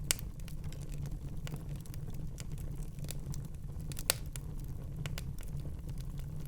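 Wood fire crackling in a fireplace: a steady low rumble of flames with scattered small snaps and two sharper pops, one just after the start and one about four seconds in.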